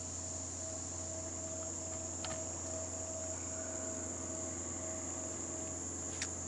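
Crickets trilling in a steady, high-pitched chorus, over a constant low hum.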